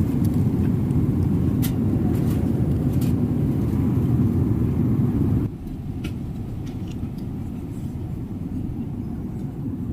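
Steady low rumble of jet airliner cabin noise in flight, dropping abruptly to a quieter level about halfway through, with a few faint clicks.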